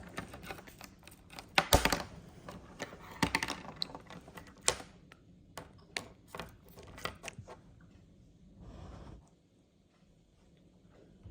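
Budgie playing with a toy, pecking and knocking it so that it gives off a run of quick, irregular clicks and taps, loudest in the first few seconds. The taps thin out, followed by a brief rustle.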